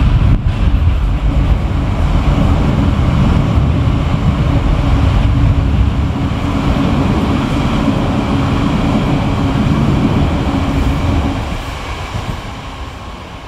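Passenger train crossing a steel girder railway bridge: a loud, steady rumble with a drone, fading away over the last couple of seconds as the train passes.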